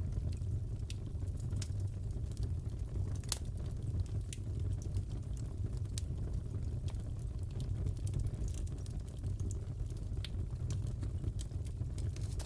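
Crackling fireplace: a steady low rumble of burning wood with scattered sharp pops and crackles, one louder pop about three seconds in.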